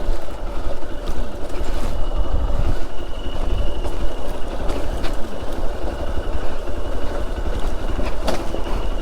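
Hero Xpulse motorcycle's single-cylinder engine running steadily while riding off-road.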